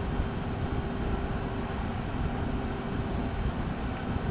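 Steady cockpit hum inside a Beechcraft Premier I jet on the ground, a constant low rumble with one thin, even tone running through it.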